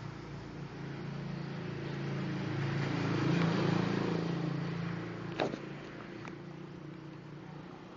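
Yamaha Xeon 125 scooter engine running through an aftermarket Nob1 exhaust at a fairly steady pitch, growing louder to a peak around the middle and then fading away. A short sharp click about five and a half seconds in.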